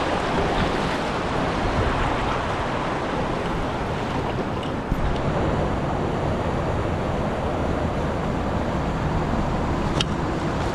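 Steady rush of river water around a kayak, mixed with wind on the microphone, with a couple of small clicks.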